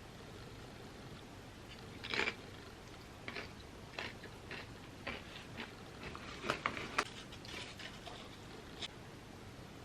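Chips being bitten and chewed close to the microphone: a loud crunch about two seconds in, then irregular crunches, sharpest around six to seven seconds.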